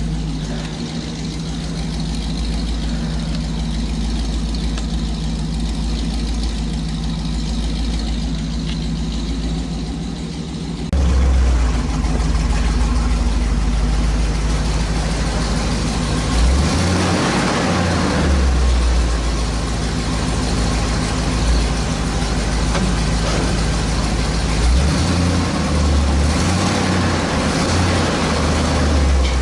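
1972 Chevrolet truck's engine idling steadily; about eleven seconds in it suddenly becomes louder and fuller.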